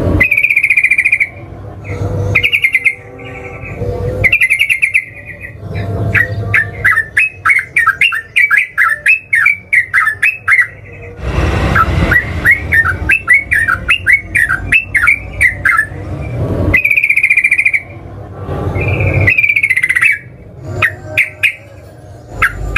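Yellow-vented bulbul (trucukan) singing loudly: short bubbly whistled phrases alternating with two long runs of rapid chattering notes, about four a second, the long 'ropel' song.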